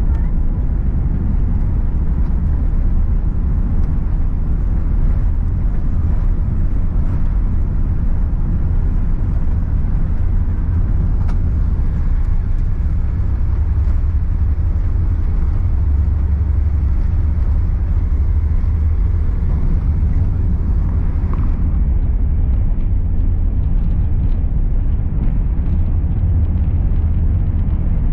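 Steady low rumble of airliner cabin noise from the engines and airflow, with no breaks. A faint hiss above it falls away about three-quarters of the way through.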